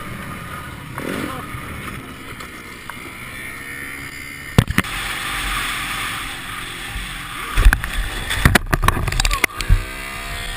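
Dirt bike engine running under heavy wind noise on the microphone, with a sharp knock about halfway through and a quick run of knocks and thumps near the end.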